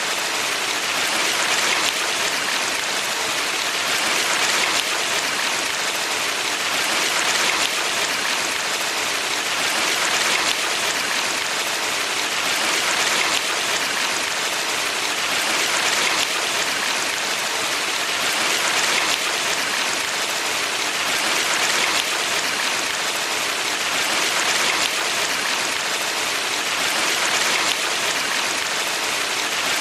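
Valley stream water rushing steadily, swelling gently about every three seconds.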